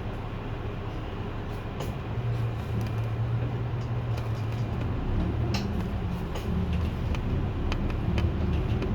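City bus diesel engine running with road noise as the bus drives. The engine hum grows louder from about two seconds in as it pulls harder, with a few sharp rattles over it.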